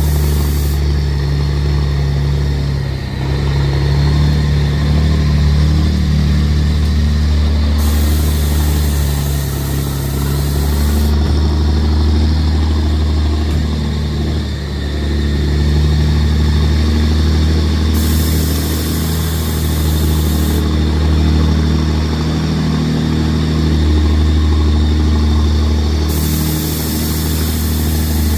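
Engine of an M35 deuce-and-a-half military truck running with a steady low drone, its level swelling and dipping slightly now and then.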